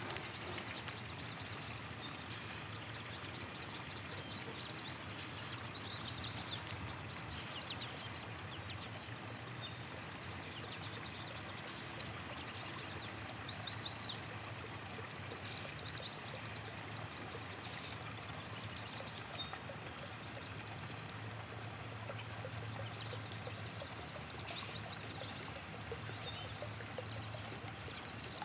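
Songbirds singing short, high, fast trills every few seconds over a steady river background, loudest twice: about six seconds in and again about thirteen seconds in.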